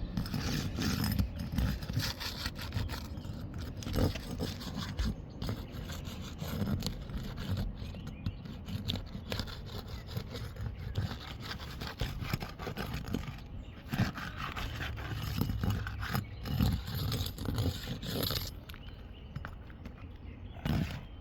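Repeated, irregular scraping and rubbing on a 3-tab asphalt roof shingle as it is worked loose and lifted for repair; the shingle tears through.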